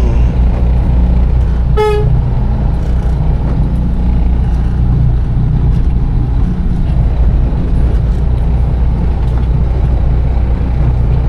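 Container truck's diesel engine running with a steady low rumble, heard from inside the cab. A short vehicle-horn beep sounds once, about two seconds in.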